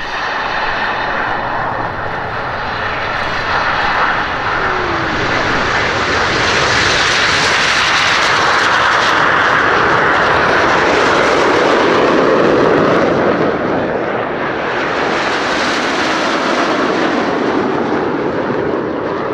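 Turbofan engines of the Red Arrows' nine BAE Hawk T1 jets as the formation takes off and passes, a loud rushing jet noise that builds to a peak around the middle, dips, swells a second time, then eases off near the end.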